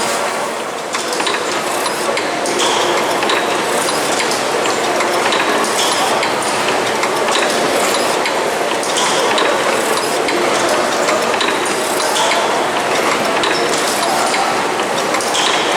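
Steam mill engine running steadily: a continuous mechanical clatter with light, regular clicks and clinks from its moving parts.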